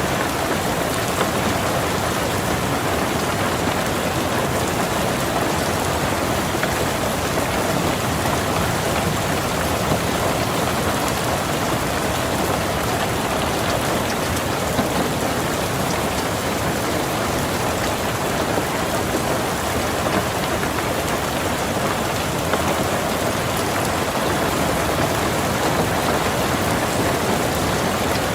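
Rain falling steadily on a car, an even hiss of drops that holds without change.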